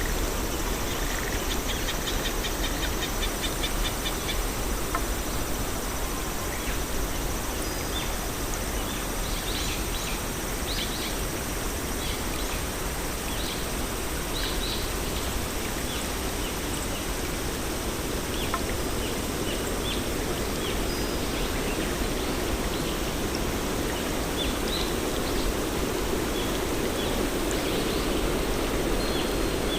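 Garden ambience: a steady rushing noise with scattered short, high bird chirps and a brief rapid trill near the start.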